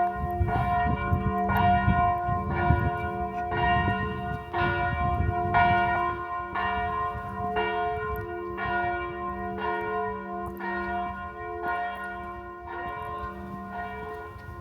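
Church bell ringing, struck about once a second so the strokes overlap in a continuous ringing, growing slightly fainter toward the end. A low rumble sits beneath it for the first several seconds.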